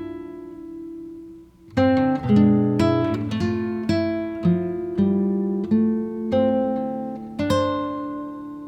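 Background music on acoustic guitar: a chord rings out and fades, then plucked notes and strums start again about two seconds in.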